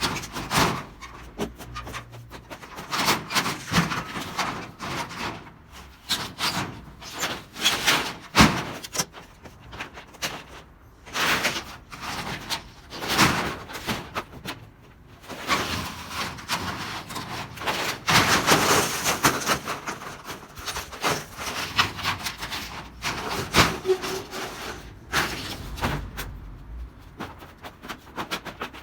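Corrugated metal roofing sheets and roof timbers being handled: irregular clattering knocks and bangs mixed with scraping, the sharpest bang about eight seconds in and a longer stretch of scraping around eighteen to twenty seconds in.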